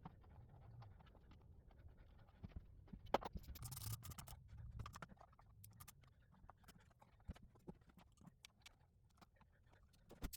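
Faint clicks and scraping of hand tools fastening the terminal bolts on a small motorcycle battery, with a busier run of taps about three to five seconds in.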